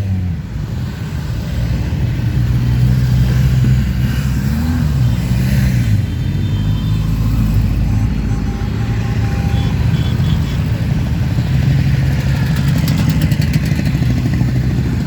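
Motorcycle engines running steadily as a parade of bikes rides past, with one engine revving up and back down about five seconds in.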